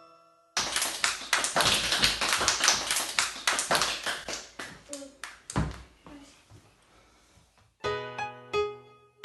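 A dense patter of many quick taps or claps, starting suddenly and dying away over about five seconds, like rain. Near the end the tinkling accompaniment of a children's song comes back in.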